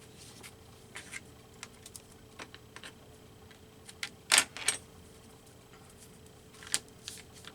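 Handling noises at a work table as collage paper is laid down and glued: scattered light clicks and rustles. The loudest is a short cluster of rustles about four and a half seconds in, with another near the end.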